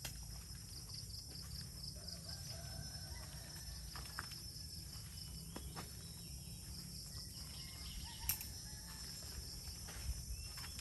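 A rooster crowing faintly twice, each crow lasting a second or two, with a sharp click about eight seconds in.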